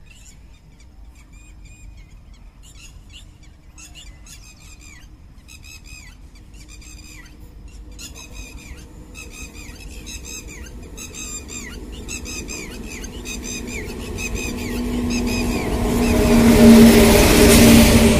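An electric-locomotive-hauled passenger train approaching: its rumble builds steadily from about halfway and is loudest near the end as the locomotive arrives alongside, with a steady hum over it. High chirping calls repeat about twice a second over the quieter first half.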